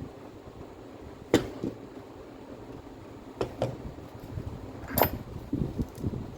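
A few sharp knocks and clicks from handling hard tool parts on a workbench. There is one about a second in, two in quick succession a little past the middle, and one loud one near the end, over a low rumble of handling noise.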